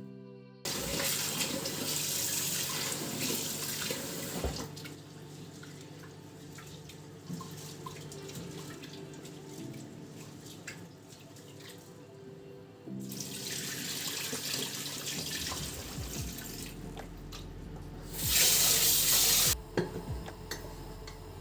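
Tap water running into a sink in three spells: a few seconds near the start, a couple of seconds midway, and a louder burst of about a second and a half near the end.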